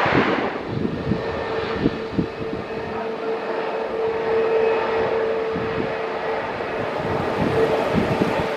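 Airbus A321neo jet engines running with a steady roar and a steady whining tone, with low thumps of wind on the microphone. The rushing part of the roar eases off about half a second in.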